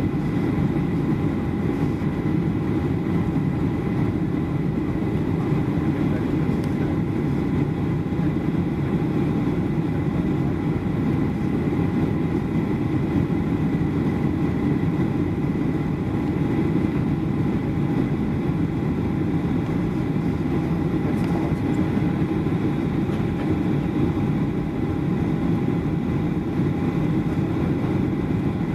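Steady low engine rumble with a faint constant whine above it, unchanging throughout.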